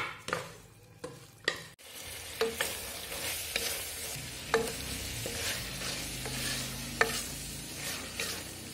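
A wooden spoon stirring chopped lamb tripe and intestines in a metal pot, knocking against the pot's side. About two seconds in, the spiced mixture is sizzling as it fries in oil, with a clack of the spoon on the pot every second or so.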